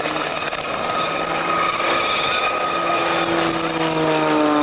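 Propeller aircraft engine droning steadily overhead, its pitch sliding down near the end as it flies past.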